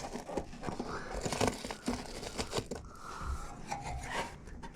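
Irregular rustling, crinkling and scraping handling noise with scattered short clicks and knocks, from hands working in a tight space.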